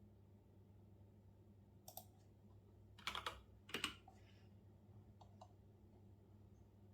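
A few scattered keystrokes on a computer keyboard: a light tap about two seconds in, a quick run of keys around three seconds, a louder press just before four seconds, then two faint taps, over a faint low hum.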